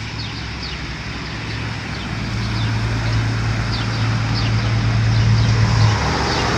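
Excavator's diesel engine working steadily, its hum growing louder before the low tone drops away about six seconds in, with a noisy rumble of demolition around it. Short faint chirps sound over it.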